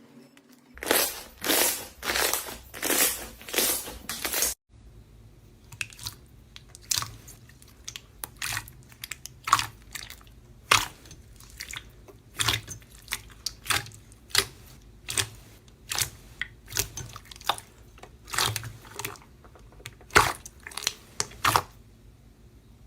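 Slime being squeezed and worked by hand. First comes a quick run of loud, dense squishes, then after a short break a long, irregular series of sharp crackling pops, about two a second.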